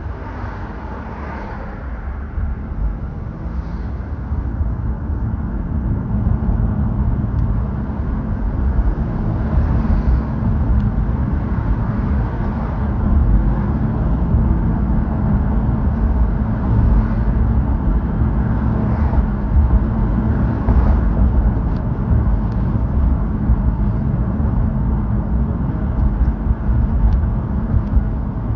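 A car on the move: a steady low rumble of engine and road noise that builds over the first few seconds, then holds steady.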